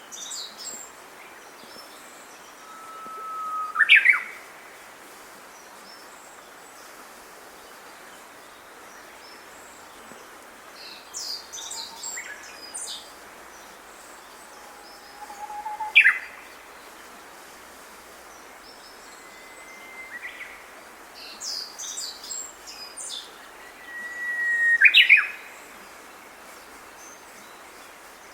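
Japanese bush warbler singing three times, each song a long held whistle ending in a quick up-and-down flourish, with thin high chirps from other small birds in between. A steady hiss runs underneath.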